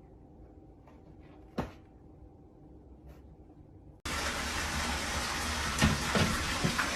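A few faint clicks in a quiet room. About four seconds in, loud rushing water starts abruptly, with a knock or two near the end.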